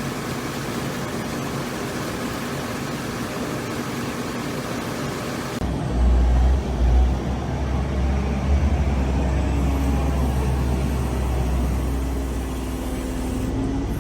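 Steady machinery noise that changes abruptly about five and a half seconds in to a heavy, steady low rumble of a large engine or machine.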